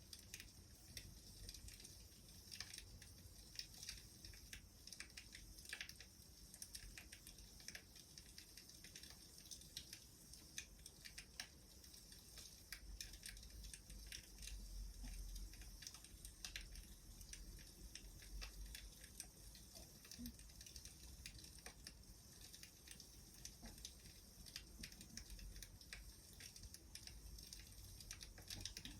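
Faint crackling of a wood fire: irregular small snaps and pops over a low rumble.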